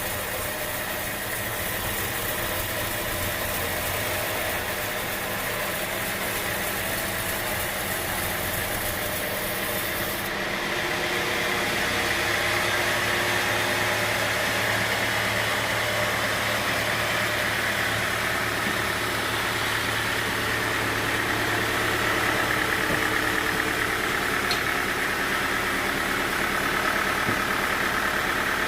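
Sawmill machinery running steadily, an engine-like drone. About ten seconds in the sound changes abruptly and turns somewhat louder, with a stronger higher-pitched hum.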